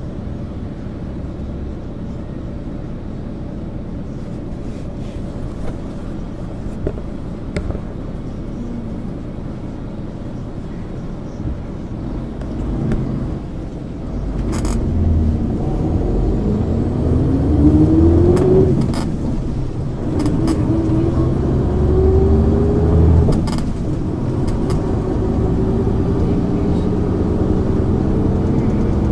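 MAN ÜL 353 bus's diesel engine running low and steady, then from about halfway through pulling harder and accelerating. The engine note climbs, drops at a gear change, climbs again and drops at a second shift, then holds steady at speed, with a few sharp clicks near the shifts.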